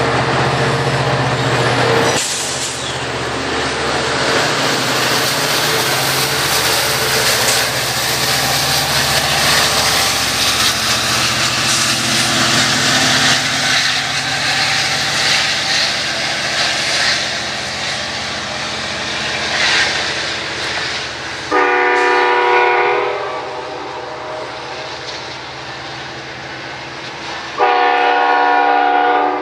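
Train passing close by, with a steady rush of wheels and cars on the rails. Then the locomotive horn sounds two blasts, a short one and a second near the end.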